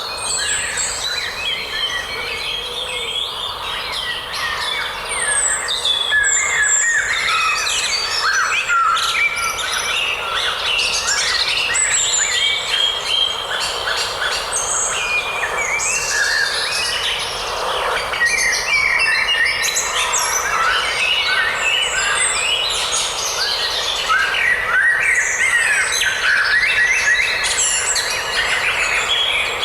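A forest chorus of many songbirds, with overlapping chirps and warbled phrases from several birds at once over a steady background hiss.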